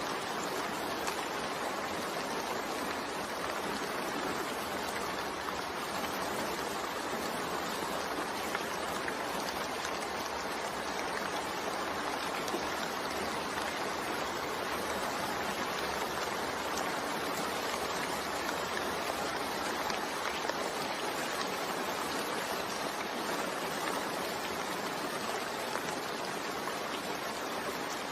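Steady rain falling: an even, unbroken hiss of water with faint scattered drop ticks.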